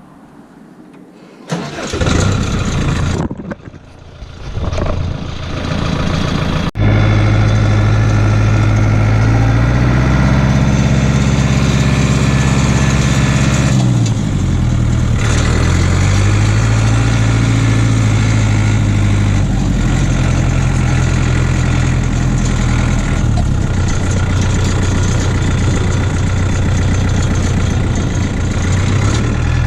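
Case JX85 tractor's diesel engine cranking unevenly for a few seconds, then catching and running steadily. About halfway through, the engine speed dips briefly and comes back up.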